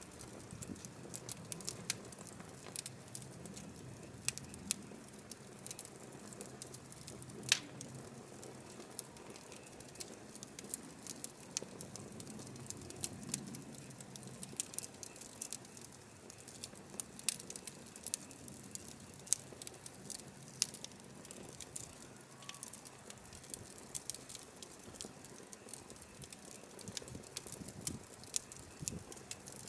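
Firewood burning, with irregular sharp pops and crackles from the logs over a steady low hiss of flame; one louder snap about seven and a half seconds in.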